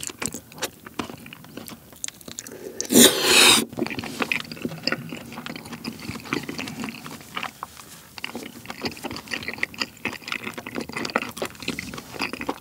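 Close-miked wet, sticky chewing of a cream-sauced mochi rice cake, with mouth smacks and small clicks, and one louder burst of wet mouth noise about three seconds in.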